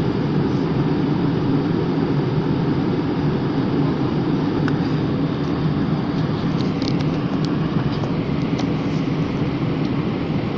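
Steady, loud cabin noise of an airliner in flight: a constant low rush of engines and airflow, with a few faint light ticks in the second half.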